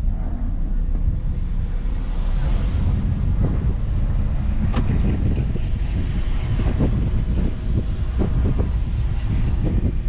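Car running at speed on a racetrack: steady engine and road rumble with heavy wind buffeting on the microphone and scattered short knocks.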